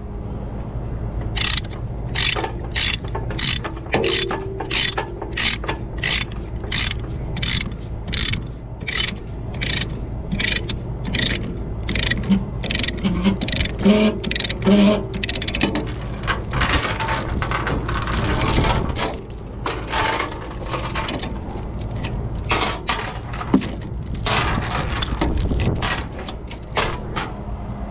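Ratchet chain binder being cranked to tighten a tie-down chain: an even clicking of the pawl about twice a second, then faster, more irregular clicking from about halfway.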